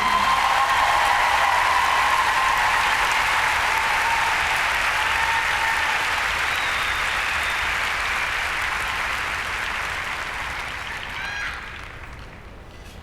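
Large arena crowd applauding and cheering, the applause slowly thinning and dying away near the end.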